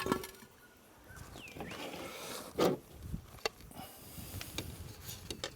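Scattered clinks and knocks of utensils and dishes as food is served up, with one louder knock about two and a half seconds in.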